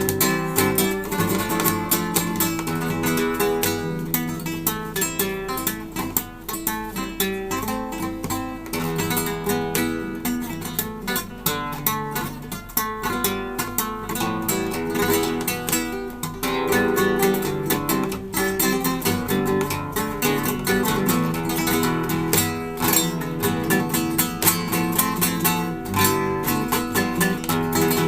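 Acoustic guitar being played, picked notes mixed with strummed chords.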